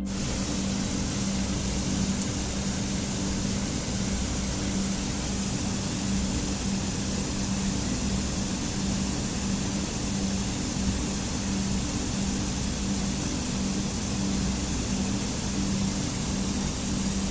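Steady rushing water, an even rush of noise that cuts in suddenly and cuts off suddenly about seventeen seconds later. A low held tone of background music runs beneath it.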